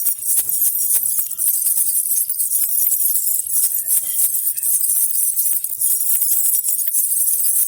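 Baby rattle with small jingle bells (jhunjhuna) shaken continuously, a steady, bright, rapid jingling.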